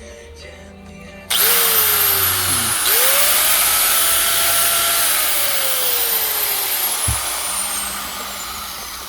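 ES G805 angle grinder's brushed motor switched on with a sudden start, then started again about a second and a half later, its whine rising to speed; after a couple of seconds the whine falls and the noise fades slowly as it winds down. It runs on freshly replaced carbon brushes and cord.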